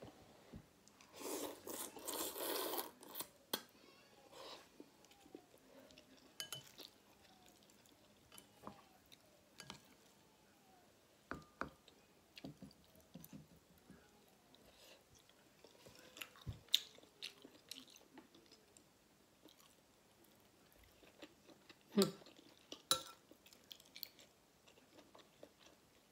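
Close-up eating sounds of noodle soup with pork and shrimp: chewing and mouth noises, with a louder noisy stretch of about two seconds near the start and scattered sharp clicks through the rest.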